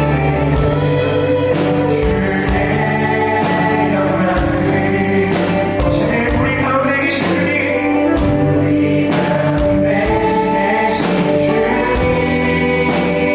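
Live worship band playing a contemporary worship song: several voices singing together over keyboard, bass, electric guitars and a steady drum beat.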